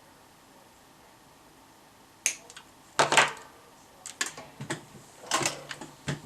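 Irregular sharp clicks and clatter of small hard objects being handled, starting about two seconds in, with the loudest knocks about three and five and a half seconds in.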